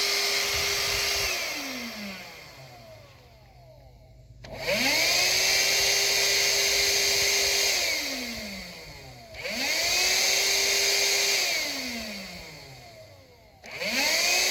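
12-volt DC car vacuum's motor switched off and on by hand, three times over: each time it winds down with a falling whine and fading rush of air, then spins back up with a quick rising whine to a steady run. The stops are deliberate, not the vacuum failing; the restarts are to test its startup surge.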